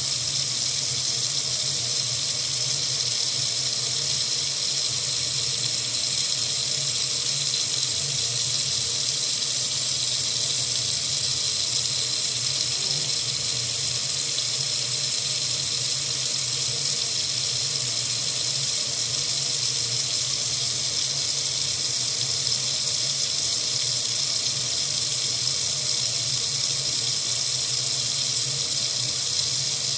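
Water running steadily from a faucet into a sink, an even hiss with no breaks or changes.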